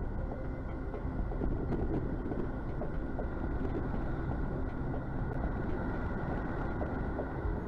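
Steady noise of ocean surf, with wind on the microphone.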